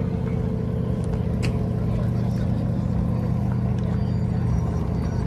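A vehicle engine running steadily at an even, low speed, a deep drone that holds level throughout.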